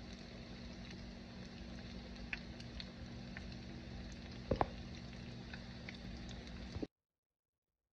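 Tuna fritters shallow-frying in hot oil in a pan: a steady sizzle with scattered small pops and one louder pop about four and a half seconds in, over a low steady hum. The sound cuts off suddenly near the end.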